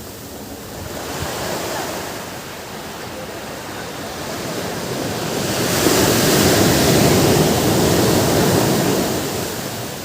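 Ocean surf on a beach: waves washing in, with a bigger wave swelling about six seconds in, breaking, and falling away near the end.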